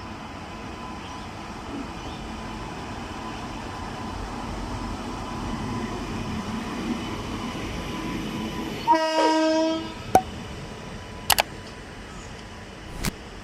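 Passenger train running on the rails, its rumble building over several seconds, then the WAP-5 electric locomotive's horn sounding one short blast of about a second. A few sharp clicks follow.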